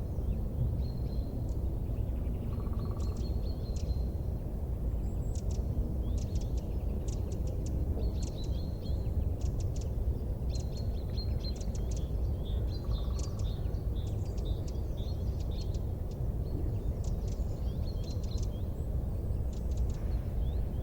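Small birds chirping and twittering again and again over a steady low rumble.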